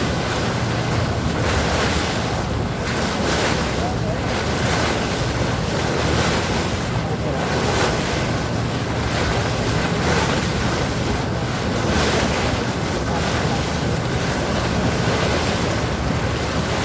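Sea water rushing and splashing, with wind buffeting the microphone and a low steady hum underneath, as from a boat crossing open water. The sound rises and falls gently in surges.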